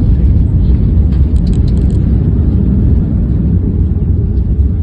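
Aircraft engine noise heard from the ground: a loud, steady low rumble, with a few faint high clicks about a second and a half in.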